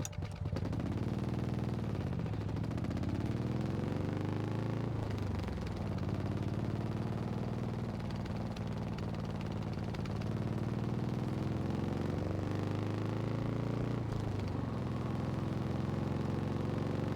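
An engine running with a rapid pulsing beat, its speed dipping and picking up again several times.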